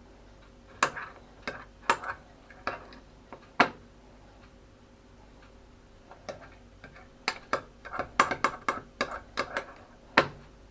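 A spoon clicking and tapping against crockery while scooping a soft cream cheese filling. The clicks are sharp and irregular: a few spread over the first four seconds, then a quicker cluster over the last few seconds.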